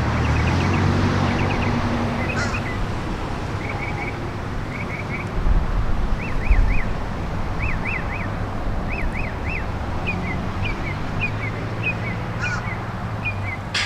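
Diesel locomotive engine idling with a steady low hum, while a songbird sings short chirps in groups of two or three. A brief low buffeting about halfway through.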